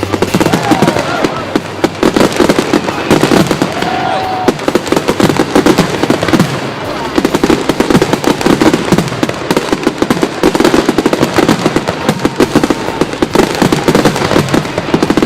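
Fireworks display: a rapid, unbroken barrage of bangs and crackles from many shells bursting close together.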